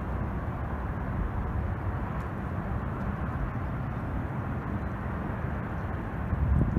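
Freight train rumbling steadily as it rolls past.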